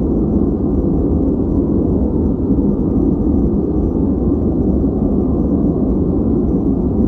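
Steady 'white noise' track for focus, filtered so the treble is gone: an even, deep, muffled rush with a low rumble under it, unchanging throughout.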